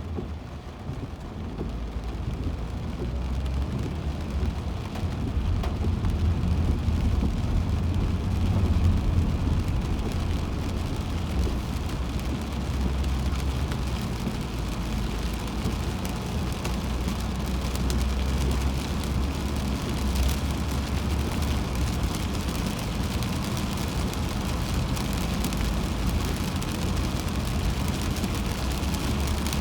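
Steady road noise inside a car driving on a rain-soaked highway: a low tyre and engine rumble with the hiss of rain and tyre spray, building over the first few seconds and then holding.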